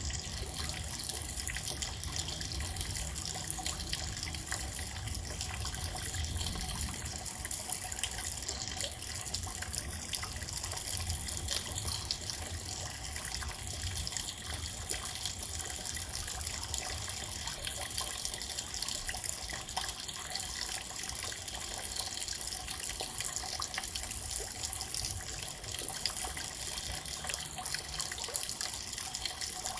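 Steady rain: an even hiss of falling drops with many small ticks, unbroken throughout.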